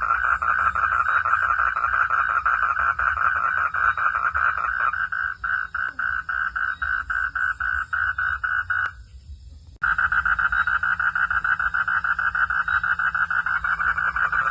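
Frogs calling at night in a dense chorus of rapid, evenly repeated pulses. The chorus thins about a third of the way in, stops abruptly for about a second around two-thirds through, then comes back full.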